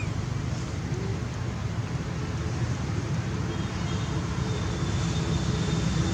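Steady low rumble with a faint hiss above it, like distant traffic or wind noise.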